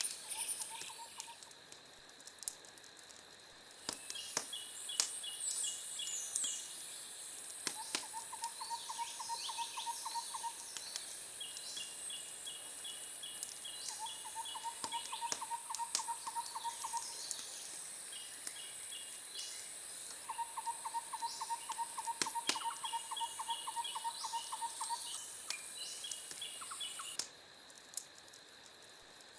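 Wood fire crackling with scattered sharp pops, over an outdoor nature bed of repeated bird trills and a steady high insect drone. The drone and trills drop out near the end.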